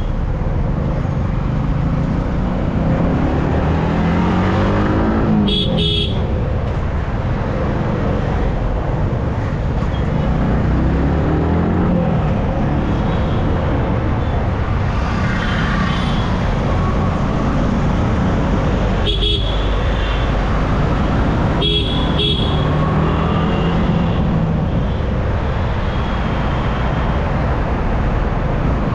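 Motorcycle riding on a highway, its engine note rising in pitch as it accelerates, under steady wind and road noise. Vehicle horns honk a few times along the way.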